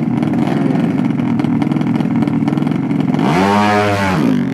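Drag-race motorcycle engine running with a rapid pulsing beat, blipped once about three seconds in with a rev that rises and falls in pitch.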